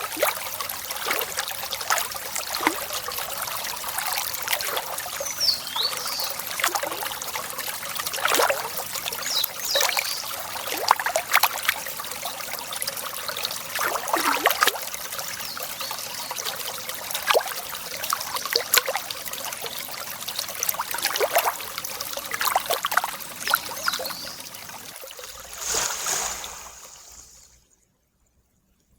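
Shallow water trickling and babbling, with a few brief high chirps over it, probably birds. The sound fades out to silence near the end.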